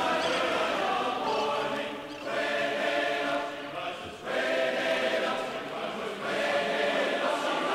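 Background music: a choir singing sustained notes in phrases of about two seconds each, with a short break between phrases.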